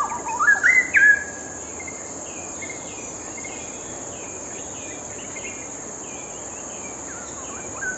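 Straw-headed bulbul (cucak rawa) singing a loud, rich, gliding phrase in the first second, then falling silent. A steady high-pitched buzz runs underneath, with faint quick repeated chirps through the middle.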